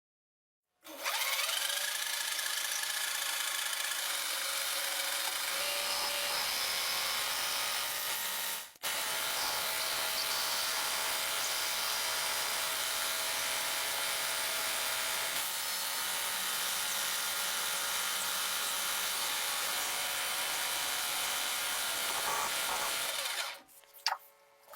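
A power tool running steadily with a hissing, grinding noise. It cuts out for a moment about nine seconds in, then stops near the end, followed by a few light knocks.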